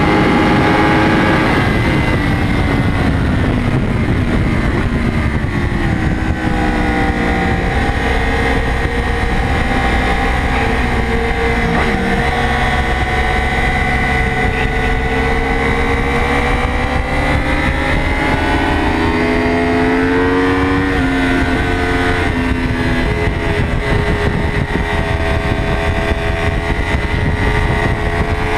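Yamaha YZF-R1's crossplane inline-four engine at race pace, heard from on the bike. Its pitch drops sharply about a second and a half in as the bike slows from high speed, then climbs and falls through the gears and corners, dropping again a little past twenty seconds in.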